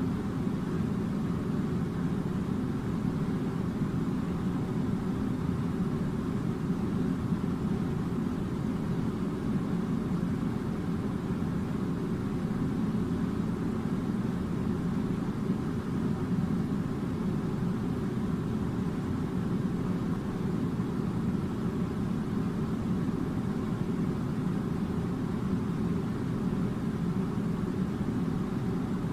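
Air conditioner running, a steady low hum with a rush of air that holds the same level throughout.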